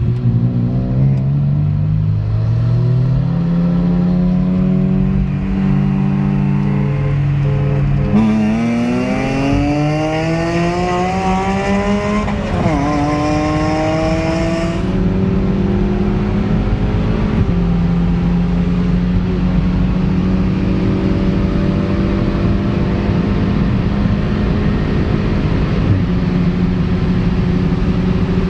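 Car engine accelerating hard. Its pitch climbs twice in the middle, with a sudden drop at a gear change between the climbs, then settles to a steady drone at constant revs for the rest.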